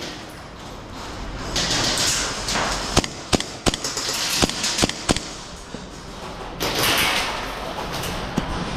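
Airsoft guns firing during a close-quarters game: a string of about six sharp cracks, irregularly spaced, in the middle of the clip, with rustling movement before and after.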